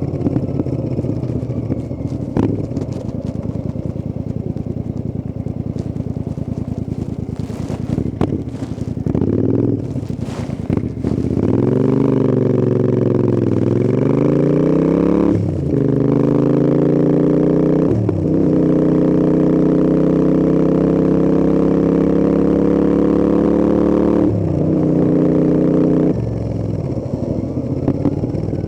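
Royal Enfield Interceptor 650 parallel-twin engine on the road. For the first part it runs at a lower, uneven note, with a few clicks. About halfway through it pulls hard, its pitch rising through several gear changes, each a brief break in the note, then it eases off near the end.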